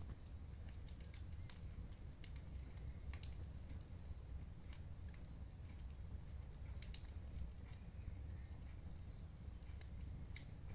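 Wood fire burning in a fireplace: irregular sharp crackles and snaps, roughly one or two a second, over a low steady rumble.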